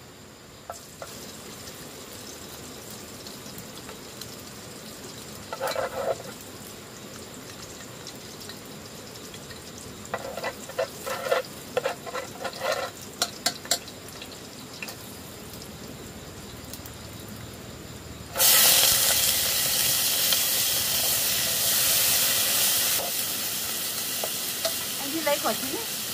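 Food hitting hot oil in a pan with a sudden loud sizzle about two-thirds of the way in, then frying steadily and slowly getting quieter. Before it comes a run of light clicks and knocks, typical of kitchen utensils.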